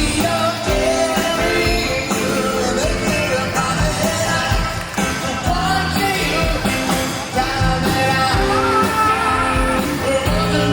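Yacht rock band playing a smooth 70s–80s style soft rock song, with a lead vocal singing over bass, drums and keyboards.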